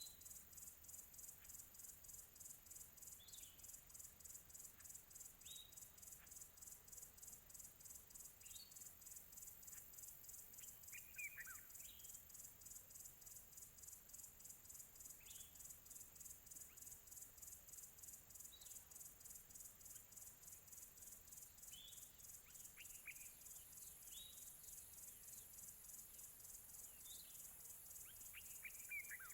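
Faint outdoor chorus: a steady, high-pitched, rapidly pulsing insect trill underneath short, falling bird chirps that come every two to three seconds. The longest, loudest chirps come about eleven seconds in and near the end.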